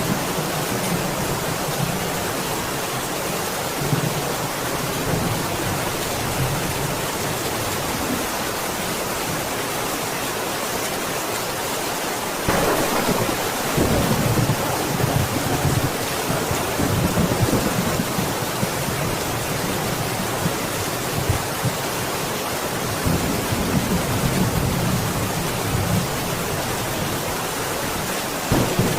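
Steady heavy rain falling, with low thunder rumbling under it that swells for several seconds about halfway through and again near the end.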